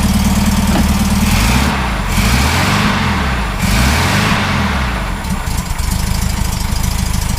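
Volkswagen 1600cc dual-port air-cooled flat-four engine on a test run, idling, then revved up and let fall back twice before settling to idle; it runs smoothly, without the valve-train knock of the old motor.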